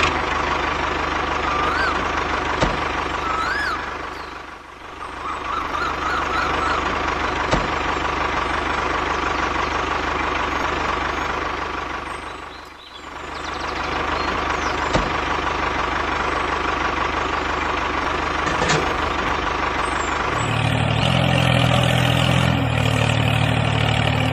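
Steady engine running, like a tractor's. It dips briefly twice, then about twenty seconds in it changes to a louder, deeper note.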